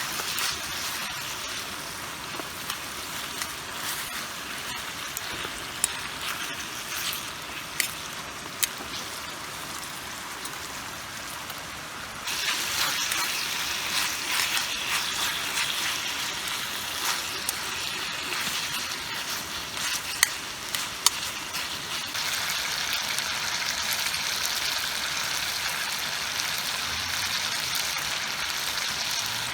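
Food sizzling in a frying pan, with scattered sharp pops. The sizzle gets louder about twelve seconds in and again a little after twenty seconds.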